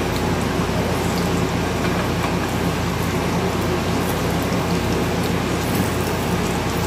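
Grated cassava batter sizzling steadily as it fries in hot oil in a pan, a dense patter of tiny pops.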